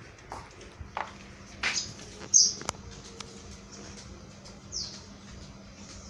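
Small birds chirping: a few short, high chirps that drop in pitch, the loudest about two and a half seconds in, with a few sharp taps among them.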